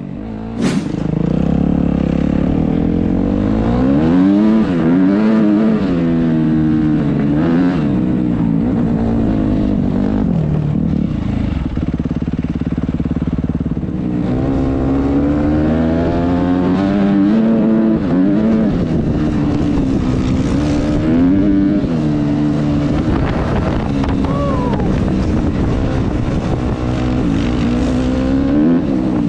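Dirt bike engine running while riding, its pitch climbing and dropping repeatedly as it accelerates and eases off. A sharp click comes just under a second in, where the engine gets louder.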